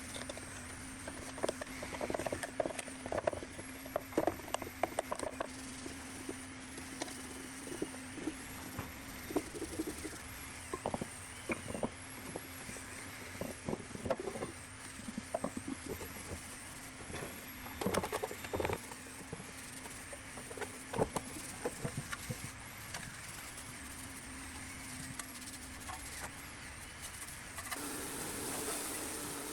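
Scattered metal clinks and knocks of hand work on engine parts, over a steady low hum.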